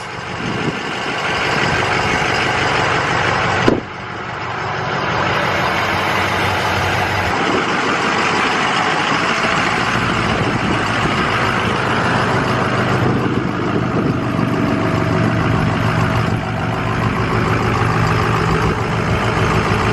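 Ford Super Duty pickup's diesel V8 idling steadily, with one sharp thump a little under four seconds in.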